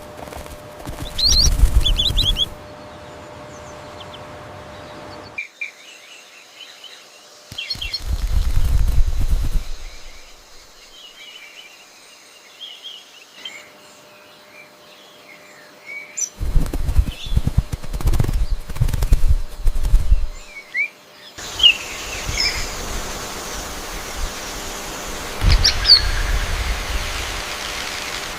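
A small bird chirping in short high calls, with several bursts of wing flapping in between.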